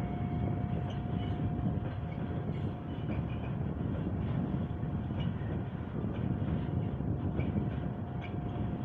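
Railway train noise: a steady low rumble with a constant thin whine over it and scattered light clicks.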